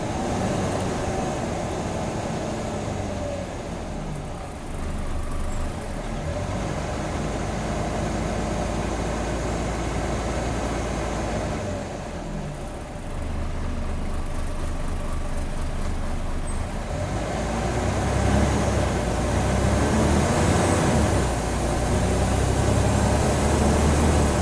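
Scania N94UB Omnicity bus engine, heard on board, pulling through the gears of its ZF Ecomat 5-speed automatic. The engine note climbs and drops back at each gear change several times, then runs louder and harder near the end.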